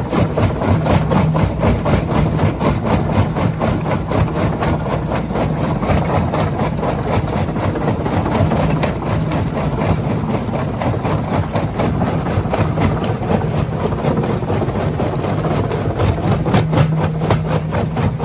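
Heavy diesel machinery running steadily, with a low engine drone under a fast, even clatter of about five strokes a second.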